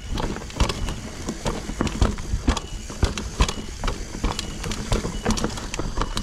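Mountain bike clattering over a rough dirt trail: irregular knocks and rattles several times a second over a steady low rumble.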